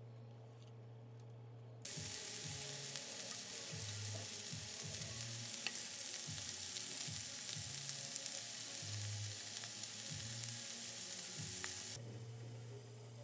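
Diced potatoes and scored sausages sizzling in a frying pan as a spatula stirs them, with small pops through the hiss. The sizzle starts about two seconds in and cuts off suddenly near the end.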